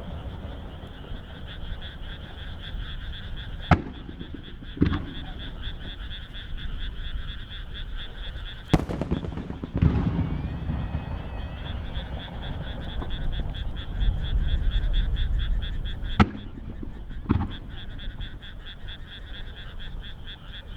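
Large aerial firework shells bursting in three pairs of sharp booms, each pair about a second apart, with a low rumble between them. Underneath runs a steady chorus of frogs croaking in rapid pulses.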